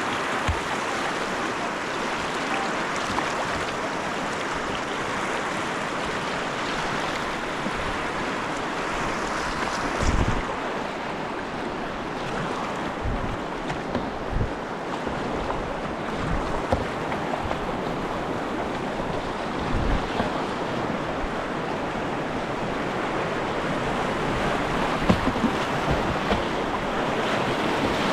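Snoqualmie River current rushing and splashing steadily around a kayak, with scattered low thumps from time to time.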